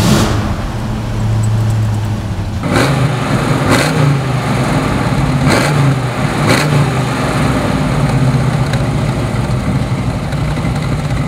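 Ford 289 V8 of a 1966 Mustang GT fastback catching and running at a fast idle. It is blipped on the throttle four times, then settles into a steady idle.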